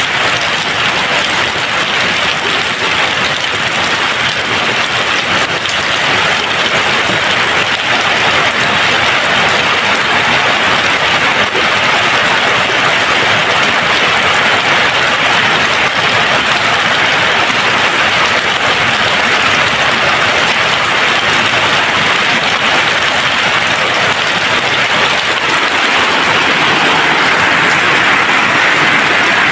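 Steady, dense rainfall: a continuous hiss of rain with no thunder.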